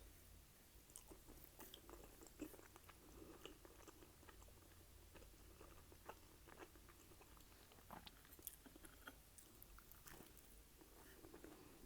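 Faint close-miked chewing of food, with many small, irregular mouth clicks and soft wet sounds.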